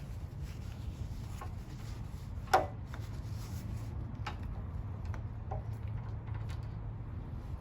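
Light clicks and knocks of engine parts and tools being handled during an engine teardown, with one sharper clank about two and a half seconds in, over a steady low hum.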